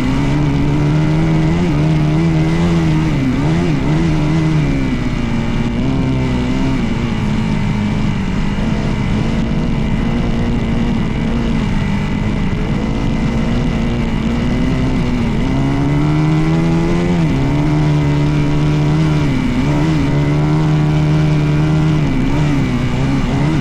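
Dirt bike engine running under way, its pitch rising and dipping again and again as the throttle is worked and gears change, over a steady rushing noise.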